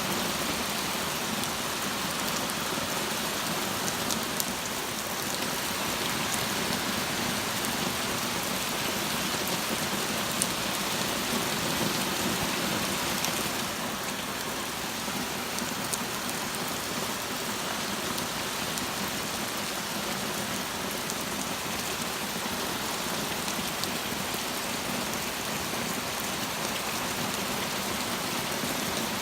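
Torrential rain pouring down in a steady, even hiss, with a few sharp ticks now and then.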